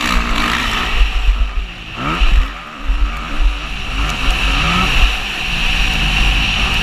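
Motocross bike engine revving up and down as the rider works the throttle and shifts, with the throttle shut briefly about two seconds in and then opened hard again. A constant low wind buffeting on the microphone runs underneath.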